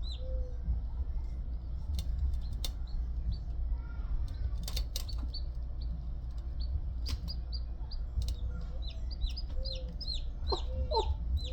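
Newly hatched chicks peeping: short, high, repeated chirps, scattered at first and coming thick and fast in the last few seconds, with a few sharp clicks in between.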